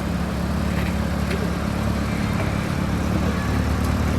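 Classic supercar engine idling steadily, with a few faint clicks over it.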